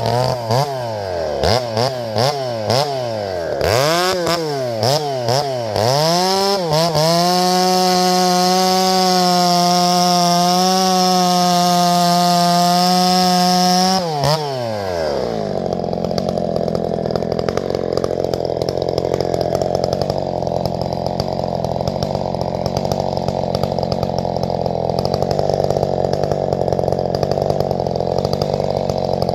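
Two-stroke chainsaw engine revved up and down several times, then held at high revs for about seven seconds. About halfway through it drops back to a steady lower running speed.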